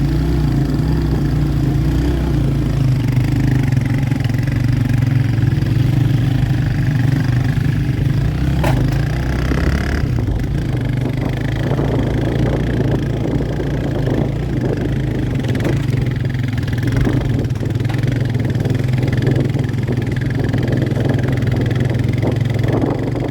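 Motorcycle engine running at a steady pitch while the bike is ridden, with knocks and rattles from the bumpy road, more of them in the second half.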